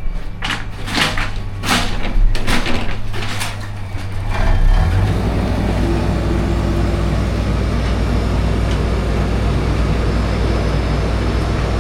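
Truck's diesel engine running, with several short hissing bursts in the first few seconds; about four seconds in the engine grows louder and then runs steadily.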